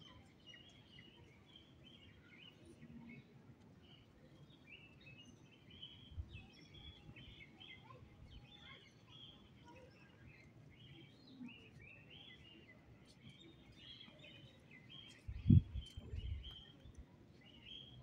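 Small birds chirping busily in the background, many short calls overlapping. A couple of dull low bumps about fifteen seconds in.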